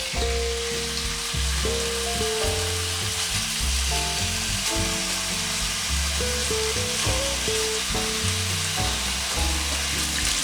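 Chicken breast slices frying in olive oil in a pan, a steady sizzle. Background music with sustained low notes plays underneath.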